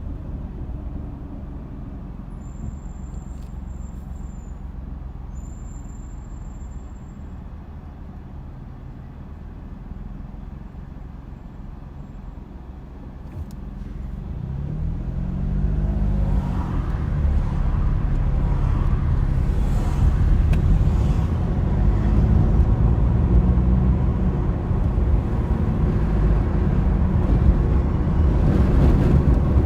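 Car driving: steady engine and road rumble that grows louder about halfway through as the car speeds up, the engine note rising and falling several times through the gears.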